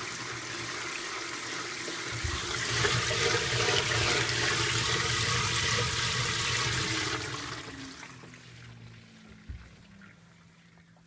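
Water rushing and splashing inside a 2012 LG top-load washing machine on its delicates cycle. It gets louder about two seconds in and fades away near eight seconds.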